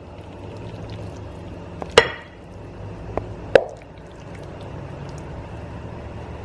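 A metal utensil clanking against cookware in a few sharp, ringing strikes, the loudest about two seconds in and two more around three and a half seconds, over a steady low hum.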